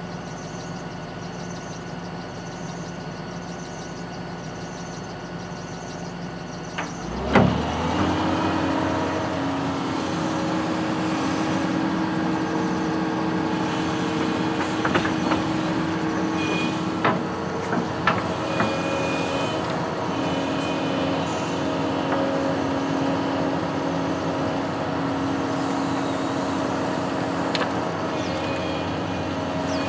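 Construction machine's engine idling steadily, then throttled up with a sharp clunk about seven seconds in, running on at a higher, louder steady speed. A few short clanks are heard midway.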